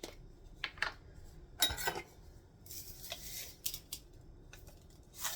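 A measuring spoon scooping dried minced garlic and tipping it into a mixing container: a few light clicks and taps of spoon on container, with a short rustle of the dry flakes about three seconds in.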